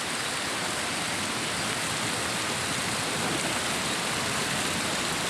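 Steady rushing hiss of falling water, even and unbroken, with no separate splashes standing out.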